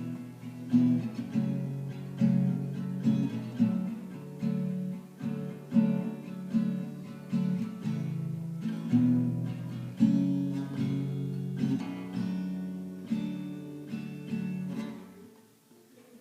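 Acoustic guitar playing chords alone, about two plucked or strummed attacks a second, fading out near the end.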